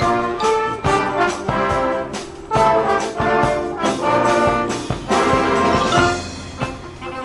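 High school marching band playing: trumpets and trombones in full brass chords over a steady drum beat, thinning out and getting a little quieter near the end.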